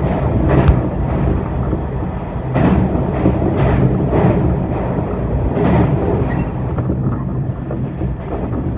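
A 415 series electric train running, heard from on board: a steady low hum with repeated clacks of the wheels over rail joints, about two a second for a stretch.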